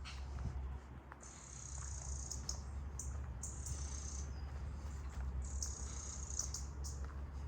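High-pitched insect chirring, in stretches of about a second that start and stop several times, over a steady low rumble.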